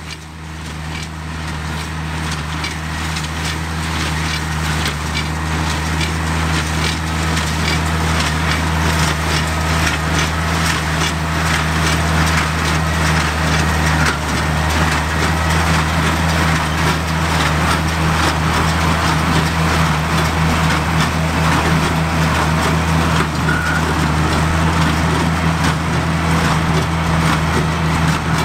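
Oliver 770 tractor's six-cylinder Waukesha engine running steadily under load while a Sperry-New Holland 276 Hayliner small square baler with a bale thrower works behind it, its mechanism giving a constant rapid clatter. The sound grows louder over the first several seconds, then holds steady.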